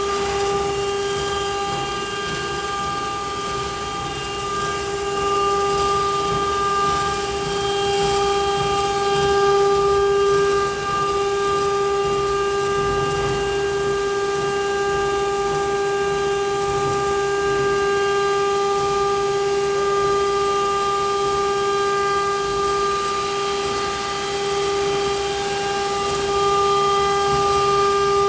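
Spindle of a PHILICAM 1325 stone-engraving CNC router running, a steady high whine with a rough hiss underneath as the bit cuts stone.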